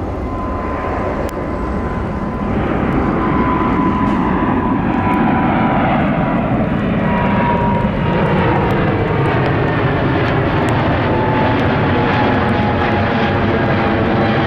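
Jet airliner engines: a loud, steady engine noise with thin whining tones that slowly fall in pitch, growing louder about three seconds in.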